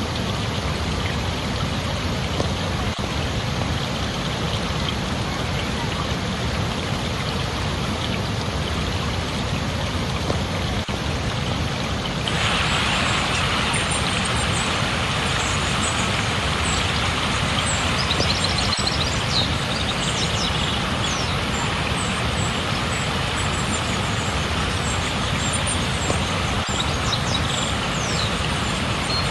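Steady rush of flowing water. About twelve seconds in, the sound changes abruptly to a brighter, slightly louder rush, with short high chirps over it.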